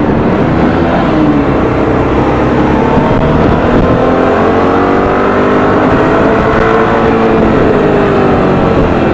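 Suzuki V-Strom 650's 645 cc V-twin engine under hard acceleration on the move, its pitch climbing over a few seconds and then levelling off, over steady rushing noise.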